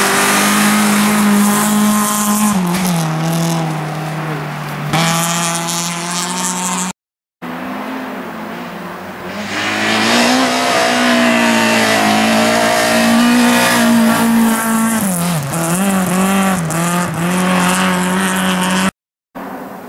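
Rally car engines running hard at high revs through snowy corners, the pitch holding, dipping briefly and climbing again as the drivers lift off and get back on the throttle. Cut off twice by a brief silence.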